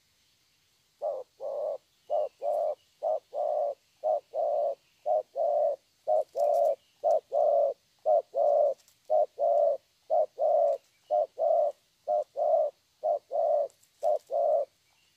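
Young spotted dove (cu gáy) cooing its low 'thổ' song: a steady series of paired coos, a short note then a longer one, about one pair a second. It is a young bird's call, which the keeper prizes for its very good tone.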